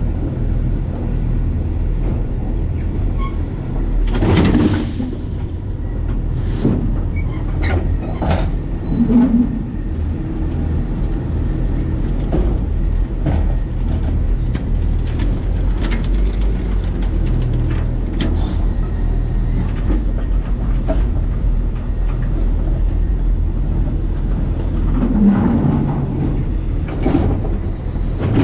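Side-loading garbage truck heard from its hopper: a steady low engine rumble with scattered metal clanks and rattles, a few of them louder, about four and eight seconds in and near the end.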